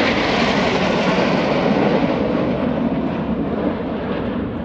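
Jet roar of the Red Arrows' BAE Hawk T1 trainers passing over in formation. It fades steadily and grows duller as they move away.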